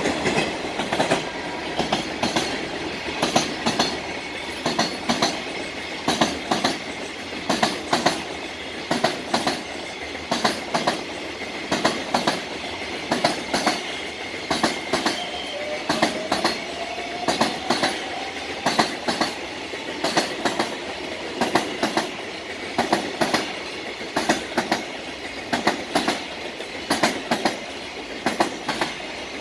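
Container wagons of a JR Freight train rolling past, their wheels clattering over the rail joints in a steady clickety-clack: small groups of sharp clicks about once a second over a continuous rolling rumble.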